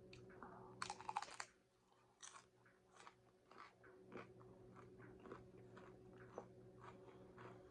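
A person biting into a crunchy taco, a quick cluster of sharp crackles about a second in, then chewing with faint, scattered crunches.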